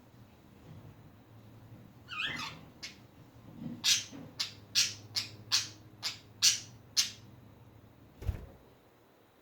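Pet budgerigars calling: one chirp about two seconds in, then a quick run of about eight short, sharp chirps, then a single low thump near the end.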